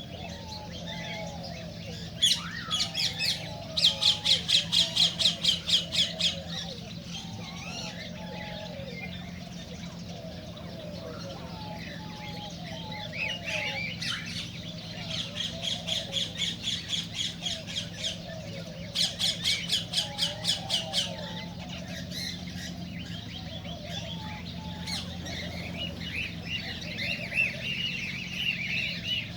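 Cockatiels calling: several runs of rapid, repeated squawks, each lasting a second or two, over softer lower chattering from other birds and a steady low hum.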